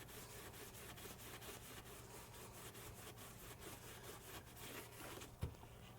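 Very faint rubbing and handling noise, close to silence, with one short low thump about five and a half seconds in.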